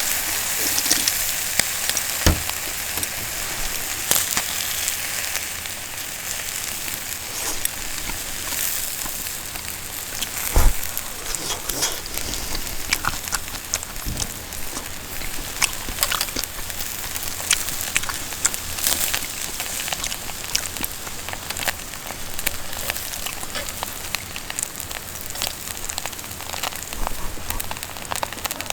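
Wood campfire crackling and hissing, with many small pops and a couple of louder knocks, the loudest about ten seconds in.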